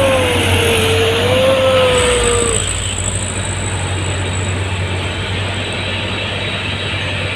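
Heavy truck running on a hill climb: a steady engine drone under a whine that glides down, levels off and fades out about two and a half seconds in.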